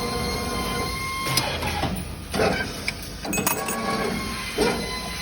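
CNC wire bending machine running as it feeds and bends steel wire into exhaust hanger rods: a steady motor whine that comes and goes, broken by several sharp mechanical clicks and clunks.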